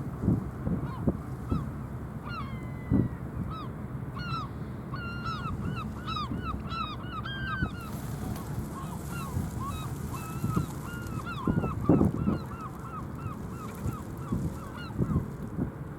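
A flock of birds calling over and over in quick runs of short, arched cries, over a low rumble with scattered low thumps, the strongest about twelve seconds in.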